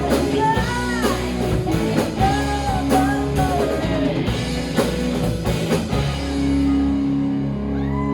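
Live rock band playing, with sung vocals, guitar and drum kit. About six seconds in, the band settles onto a held chord and the cymbals thin out.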